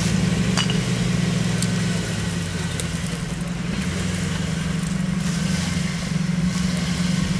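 Jeep engine running steadily at low revs during off-road driving, easing off a little in the middle and picking up again near the end, with a few faint clicks.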